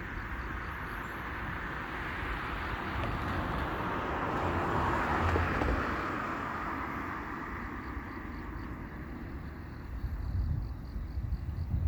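A car passing by: a rushing noise that swells to a peak about five seconds in and fades away, followed by low rumbling near the end.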